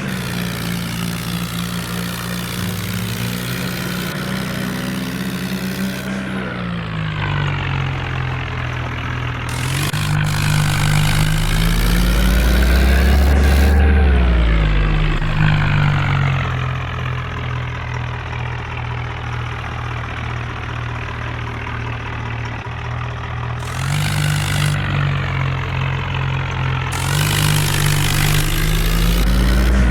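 Swaraj 855 tractor's diesel engine running. It is revved up and back down a little past the middle, and again rising near the end.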